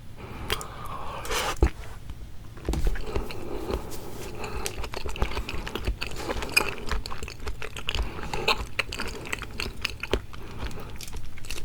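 Close-miked mouth sounds of someone eating raw seafood: wet chewing with many quick, irregular sticky clicks.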